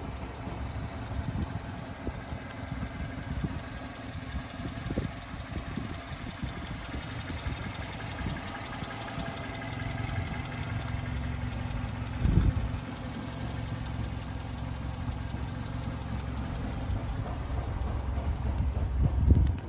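1992 Subaru Sambar kei truck's small four-cylinder engine idling steadily. Two short low thumps stand out, one about twelve seconds in and one near the end.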